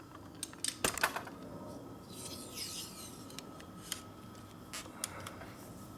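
Metal oil line being worked in a hand tube bender: a few sharp clicks about a second in, then a rubbing, scraping sound and scattered light ticks, over a faint steady high tone.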